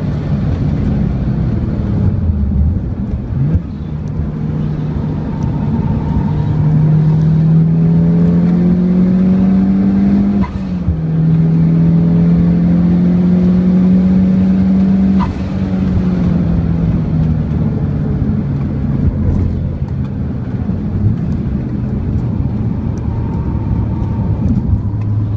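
Mitsubishi Lancer Evolution wagon's engine heard from inside the cabin at track speed. The engine note climbs under throttle, drops sharply about ten seconds in and climbs again, then falls away about fifteen seconds in and runs lower as the car slows for a corner.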